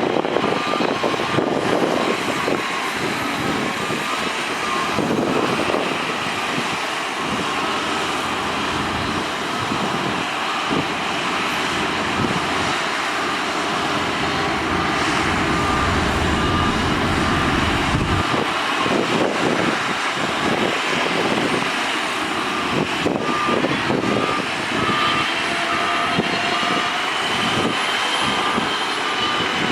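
Diesel engines of a bulldozer and dump truck running at an earth-moving site, with a reversing beeper sounding in spells near the start, in the middle and near the end. A deep rumble builds up in the middle and cuts off sharply about two-thirds of the way through.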